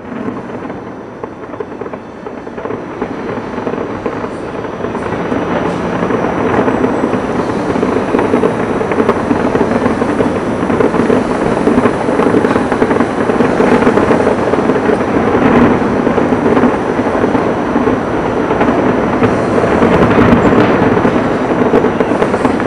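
A fireworks barrage heard far off: many shells bursting so close together that they blend into one dense, continuous crackling rumble. It grows louder over the first few seconds, then holds steady.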